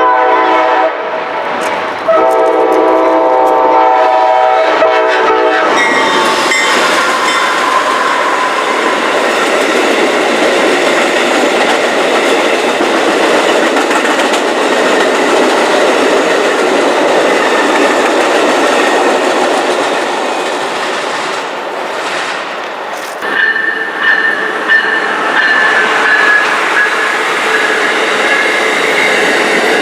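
Amtrak Siemens Charger locomotive sounding its multi-note horn: a blast ending about a second in, then a longer one of about four seconds. The train then passes close by with loud, steady wheel and rail noise, and a high, steady wheel squeal joins near the end.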